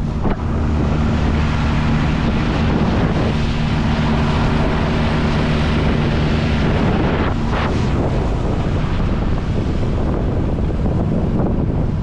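An inflatable boat's outboard motor running at a steady pitch under heavy wind buffeting on the microphone and water noise. The motor's steady note fades about two-thirds of the way through, leaving the wind and water.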